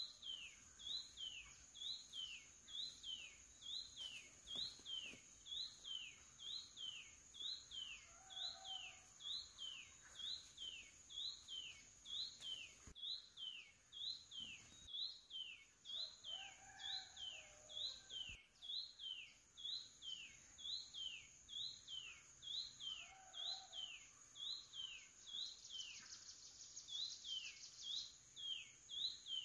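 A bird calling over and over: one short falling whistle a little more than once a second. Under it runs a steady high-pitched insect drone, and a buzzing insect trill joins in near the end.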